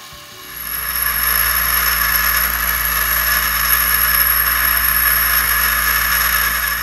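Bench grinder wheel grinding a high-speed steel lathe tool bit: a steady grinding hiss with a thin, high whine above it and a low hum beneath, starting about half a second in.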